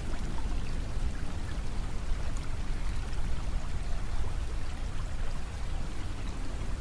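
Steady ambient white-noise soundscape: a low, continuous rushing with no clear events, only faint scattered ticks above it.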